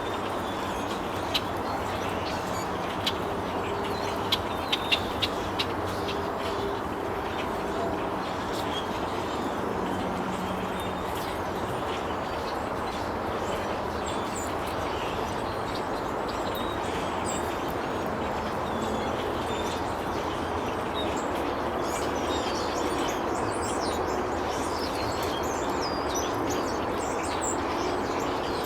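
Small birds chirping in short high calls, more often in the second half, over a steady low rumbling background noise. A few sharp clicks come in the first several seconds.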